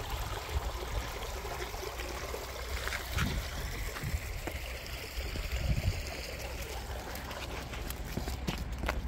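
A small forest stream running and trickling steadily, with a few faint clicks over it.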